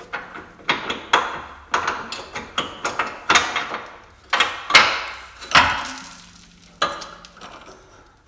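A run of irregular hammer knocks on the bolt that holds the suspension arm in the front subframe, driving it out. The loudest blows come just before and just after the middle.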